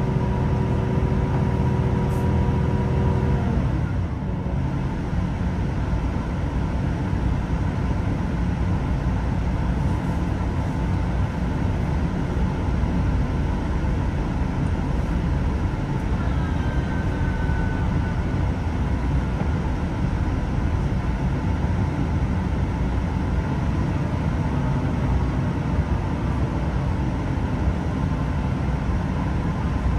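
Inside the carriage of a Class 166 diesel multiple unit on the move: a steady rumble from the underfloor diesel engine and the wheels on the rails. A steady humming tone cuts off about three and a half seconds in.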